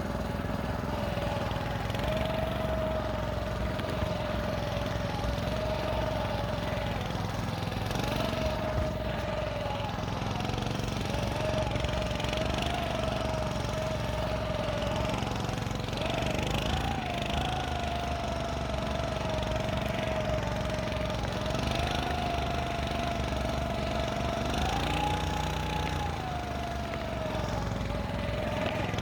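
Small engine of a motorized snow scooter running steadily under way, its pitch rising and falling slightly with the throttle and load, highest about two-thirds of the way through.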